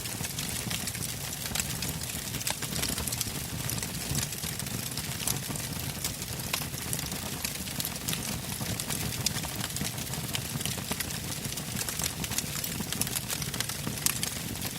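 Wood fire burning, with frequent sharp crackles from the logs over a steady low rumble of flames.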